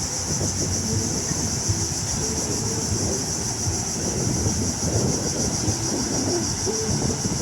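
Wind rumbling on the microphone over steady beach surf, with a constant high-pitched hiss above it.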